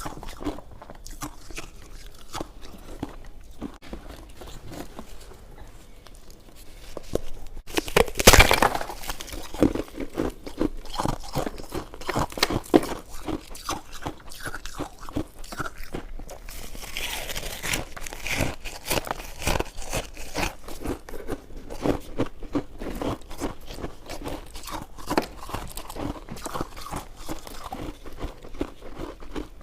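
Close-miked eating sounds: chewing and biting soft jelly buns and mochi, with many small wet clicks. There is a louder bite about eight seconds in.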